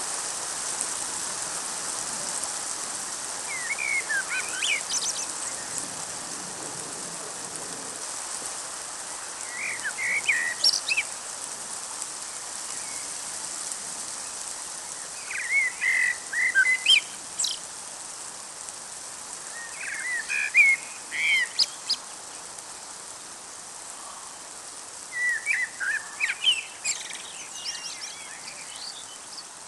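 A songbird singing short warbling phrases every five or six seconds, over a steady hiss of rain that slowly eases.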